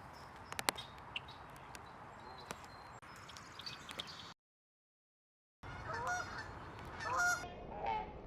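Outdoor background hiss with scattered clicks and short high chirps. The sound cuts out for about a second, then an animal gives three loud calls with stacked pitches, a second or so apart.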